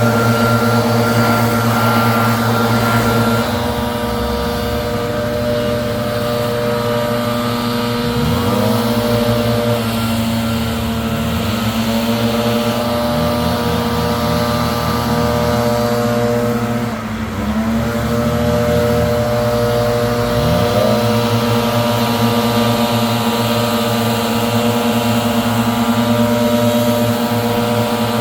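Leaf blower running steadily at high speed, its pitch dipping and climbing back several times as the throttle is eased and reopened, most deeply about seventeen seconds in.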